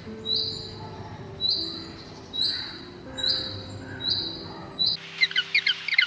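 A green bush cricket (katydid) chirping: a high, clear chirp repeated about once a second over soft background music. About five seconds in, this gives way to rapid high peeping chirps.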